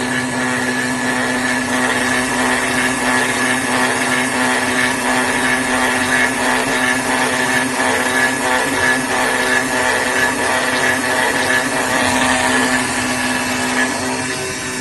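AOKE DCZ76 flatbed digital cutting machine running: a steady mechanical hum with a high whine over a rushing noise, its lower hum dropping out near the end.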